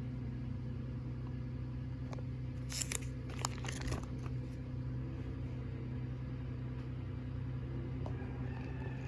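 Steady low hum of room background, with a short run of crackles and clicks about three seconds in from photo prints being handled.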